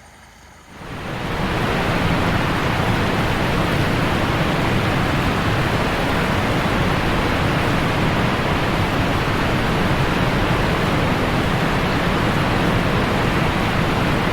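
Steady heavy rain, an even hiss that swells up about a second in and holds level.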